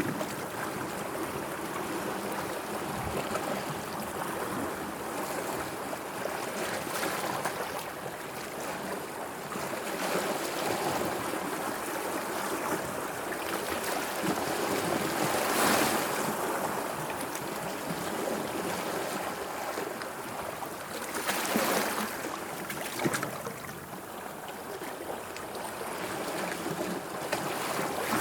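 Sea waves washing in a steady wash, with louder surges about fifteen seconds in and again about twenty-one seconds in.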